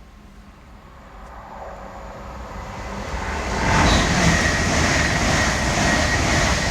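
A train approaching and passing at speed: its sound grows steadily louder over about four seconds, then holds as a loud, even rush of wheels on rail with a thin high whine over it.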